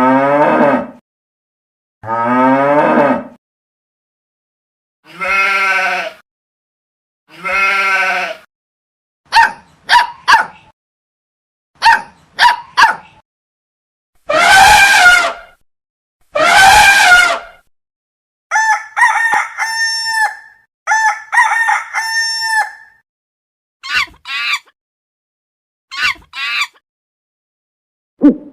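Farm-animal calls played one after another with short silent gaps: a series of bleats, some wavering, for about the first two-thirds, then a quicker run of short fowl-like calls.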